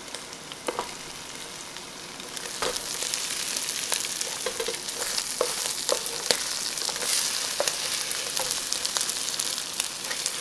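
Egg and diced Chinese sausage sizzling in hot oil in a nonstick wok. The frying grows louder about two and a half seconds in as the egg goes into the oil, with scattered taps and scrapes of a spatula against the pan.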